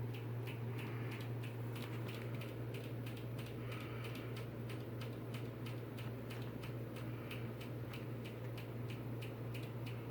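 Steady low hum with faint, evenly spaced ticks, about three a second, over quiet room tone.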